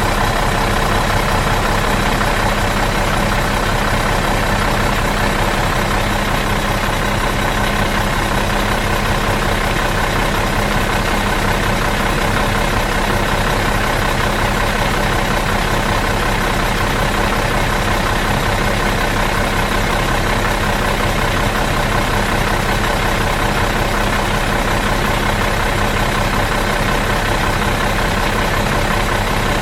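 Bus engine idling steadily out of gear, an even, unchanging diesel-type rumble with a constant hum.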